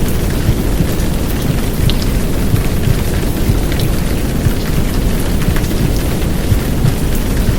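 Heavy downpour rain: a steady, dense hiss with scattered drop impacts, layered over a deep low rumble from a womb-sound track.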